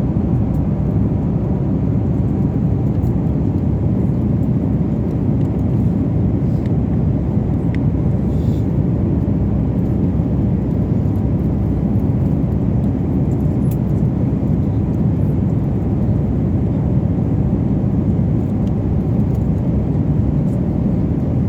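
Steady cabin noise of a jet airliner in cruise flight: engine and airflow noise, an even low rushing that holds constant.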